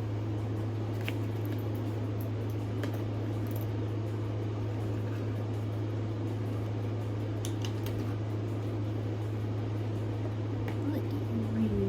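A steady low hum, like a fan or electrical hum, with a few faint light clicks over it.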